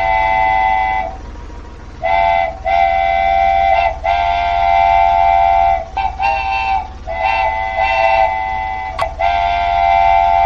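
Train horn blowing a series of about eight blasts of uneven length, each a chord of several notes, over a steady low hum.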